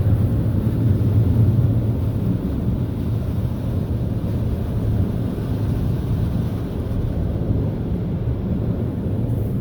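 Onboard dryer blowers of a LaserWash 360 Plus touchless car wash running: a loud, steady, low rushing of air.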